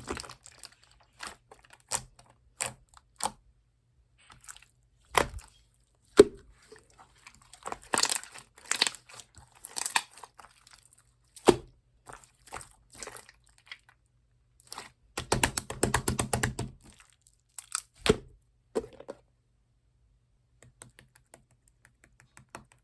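Green translucent slime being squished and pressed by hand, giving scattered sharp pops and clicks. In the middle comes a quick run of crackling little pops, and it thins out near the end.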